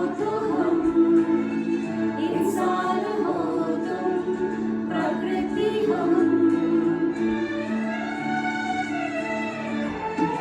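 Music: a song sung with instrumental accompaniment, the voice line gliding over steady held notes.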